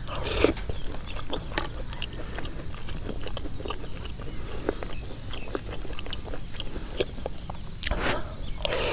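Close-up chewing of a mouthful of curry with phak wan fruits, with many small, irregular crunching clicks and a louder bite or slurp just after the start and again near the end.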